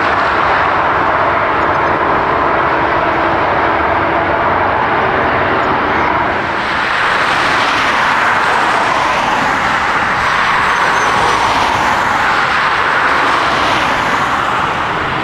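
Jet airliner engines, a loud, steady rush of noise with a faint engine tone in the first few seconds. The sound brightens and gets sharper about six and a half seconds in.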